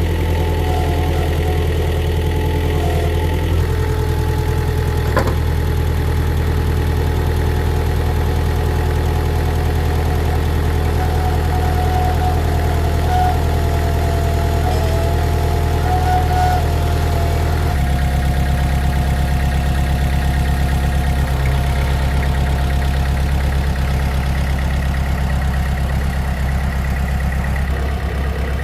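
An engine running steadily at a low, even speed. Its pitch steps abruptly to a new steady note about three and a half seconds in and again about eighteen seconds in, with one brief click about five seconds in.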